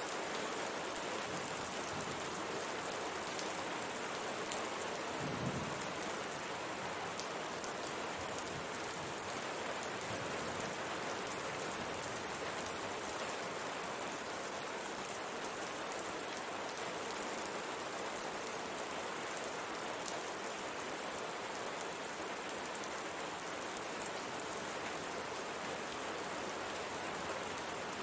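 Steady rain pattering on a window pane, with scattered sharper drop ticks against the glass and a brief low rumble about five seconds in.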